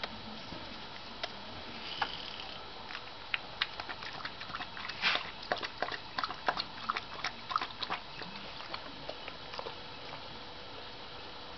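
A puppy making a run of short, irregular clicks and scuffs, busiest through the middle of the stretch.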